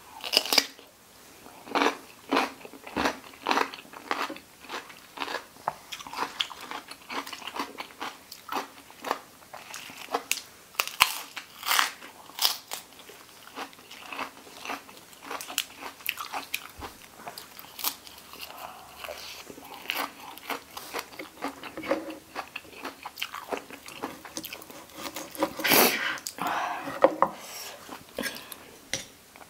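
Close-miked crunchy biting and chewing, beginning with a bite into a fresh cucumber and going on as repeated crisp crunches while she chews.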